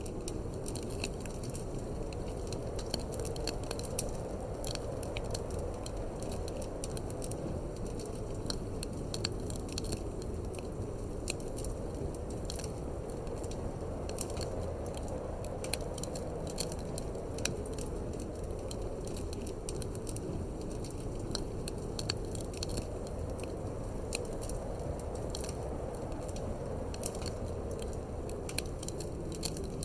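Wood fire in a fireplace crackling, with frequent irregular sharp pops and snaps over a steady low rumble of wind.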